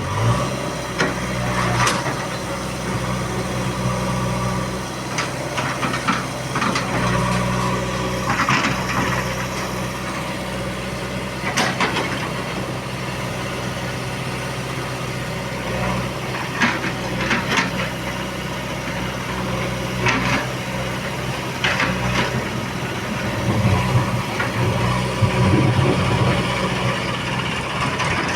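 Heavy diesel engine of earthmoving machinery running steadily, with scattered knocks and clanks over it.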